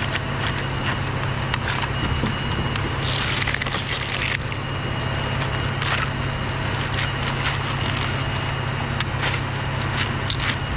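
Dry Canary Island date palm fronds crackling and snapping as they are cut and handled, in repeated bursts over a steady low hum.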